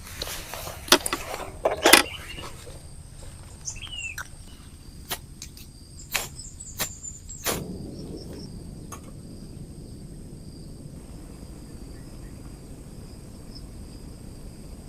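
Insects calling in a steady high-pitched drone, with a run of sharp clicks and knocks in the first eight seconds or so, the loudest around one, two and seven and a half seconds in.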